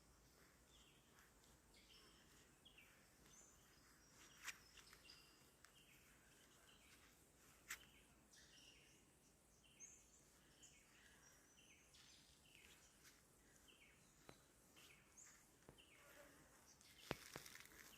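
Faint bird chirps: short, falling notes repeated every second or so, with a few sharp clicks among them.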